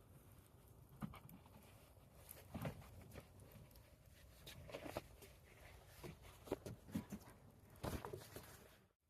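Faint, irregular light knocks and clicks over a low background hum, as of small objects being handled, with a brief drop-out near the end.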